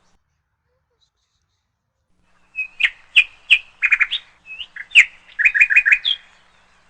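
After a couple of seconds of near silence, a small bird chirps: a quick series of sharp, high chirps and short rattling trills lasting about three and a half seconds.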